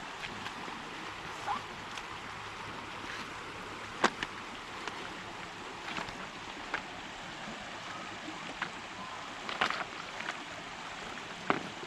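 Steady rushing of a nearby river, with a few sharp clicks and knocks over it, the loudest about four seconds in.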